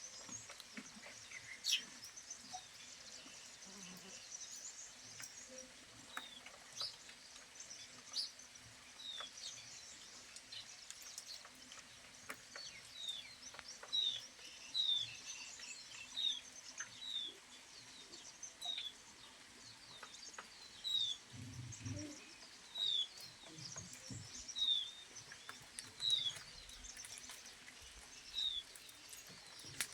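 A bird calling in short, high, falling chirps, repeated about once a second, over faint scattered ticks of dripping rainwater. There is a brief low rumble about two-thirds of the way through.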